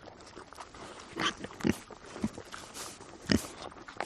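Red river hog foraging, rooting in the ground for food: a few short, irregular animal noises over a background of rustling.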